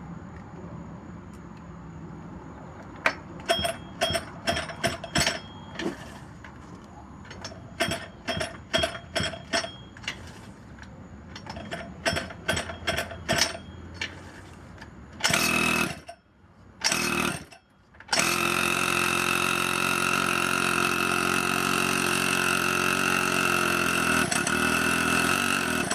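Small two-stroke pocket bike engine being pull-started: the recoil starter is yanked over and over in quick strokes, the engine fires briefly twice, then catches about eighteen seconds in and runs steadily through its freshly welded-on muffler.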